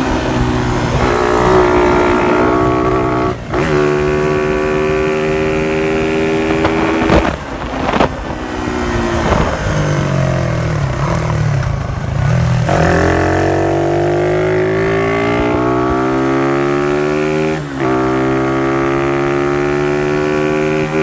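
Exhaust note of a Honda CY50/CY80 small single-cylinder four-stroke motorcycle fitted with an aftermarket exhaust, the engine pulling up in pitch in long climbs that drop off sharply several times, as when shifting up through the gears.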